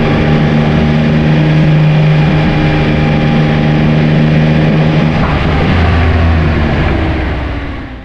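Yamaha Tracer 9's three-cylinder engine running at steady revs under way, with road and wind noise. The engine eases off and fades near the end.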